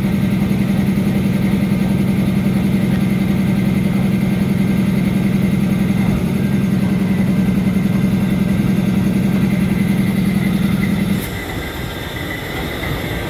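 Diesel locomotive engine idling with a steady low hum. About 11 seconds in the hum drops away abruptly with a click, leaving a quieter background.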